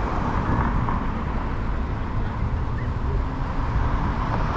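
Steady rushing noise, heaviest in the deep low end, from wind and road on a GoPro camera's microphone riding along on an electric bike through city streets.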